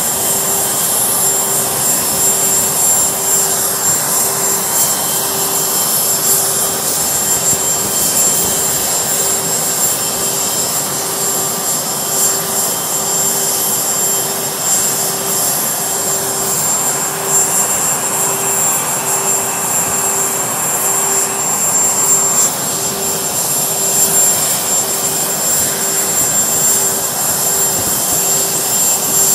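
Jet aircraft running on the ramp: a steady rushing roar with a constant high-pitched whine, and a lower hum that pulses a little more than once a second.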